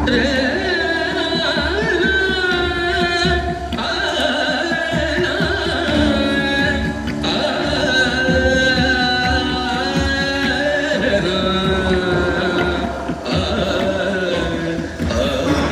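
Indian classical vocal music: a singer holds long, ornamented notes with wavering pitch over tabla drumming, with short pauses between phrases.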